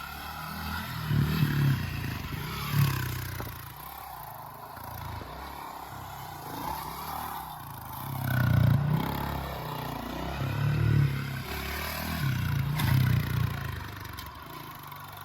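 Dirt bike engine revving in repeated surges, rising and falling roughly every couple of seconds.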